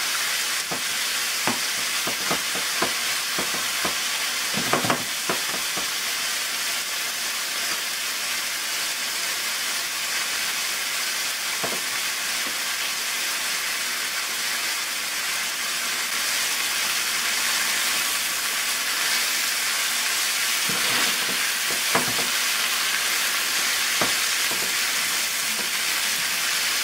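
Pork chops and garlic frying in hot oil in a nonstick pan: a steady sizzle, with a few short sharp knocks and clicks scattered through it.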